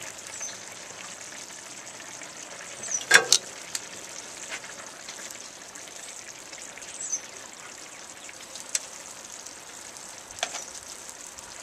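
Sausages sizzling in a steaming cast iron skillet over high heat: a steady frying hiss. A few sharp clicks cut through it, the loudest a double click about three seconds in.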